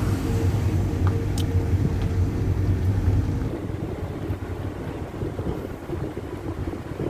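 An engine running with a steady hum that stops about three and a half seconds in, leaving low rumbling wind noise on the microphone.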